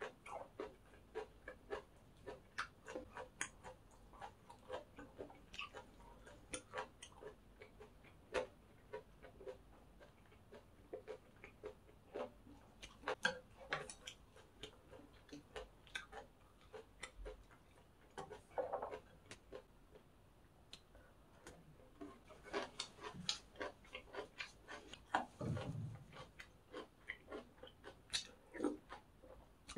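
Close-miked chewing of crunchy pork-cartilage fried rice: a steady, irregular run of crisp crunches and clicks, with the occasional clink of a spoon against the plate.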